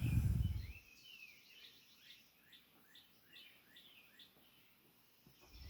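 Background birdsong: a songbird repeats short, high, downward-sliding chirps about twice a second, faint and steady, then stops about four and a half seconds in. A brief low rush comes at the very start.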